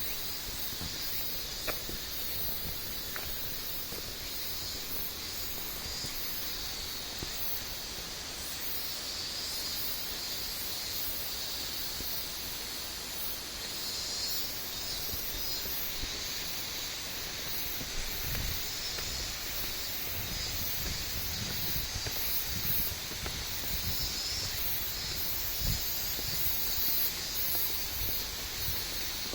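Steady rushing of a waterfall, an even hiss without pauses, with scattered low thumps in the second half.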